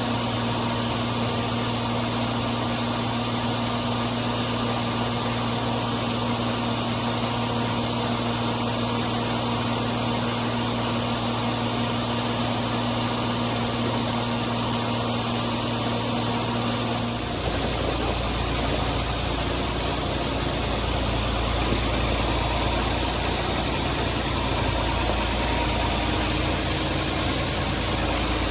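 John Deere 4230's six-cylinder diesel running steadily while driving a hammermill feed mixer that is grinding ear corn. A little past halfway the sound changes abruptly from a steady hum to a lower, rougher drone.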